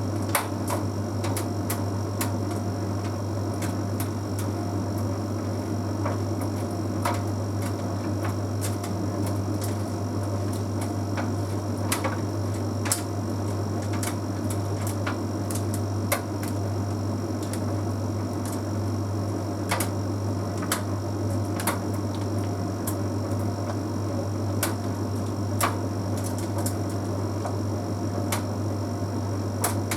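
Bosch Series 6 heat pump tumble dryer running mid-cycle: a steady low hum with irregular light clicks and taps as the load tumbles in the turning drum.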